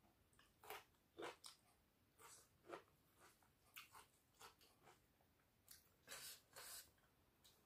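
Faint, close-miked eating sounds: irregular wet smacks of chewing a mouthful of rice and pork curry, about one or two a second.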